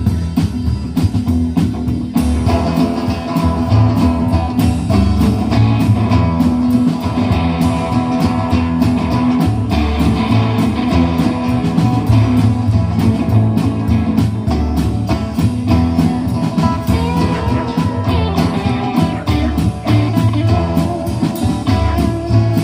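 Blues played on guitar in an instrumental passage, with no singing, over a steady beat and a moving bass line.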